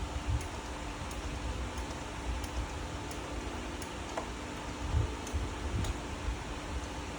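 Steady mechanical hum in a shop, with faint scattered ticks and a few soft low thumps about a third of a second, five and nearly six seconds in.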